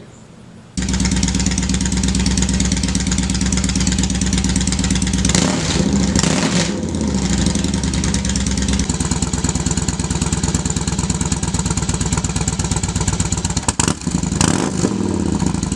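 Yamaha Road Star Warrior 1700's V-twin engine running through a Cobra swept exhaust, idling and blipped twice; the sound starts suddenly about a second in. The recording is two back-to-back runs of the same bike, one with the exhaust baffles in and one without. The second starts about nine seconds in, idling with another rev near the end.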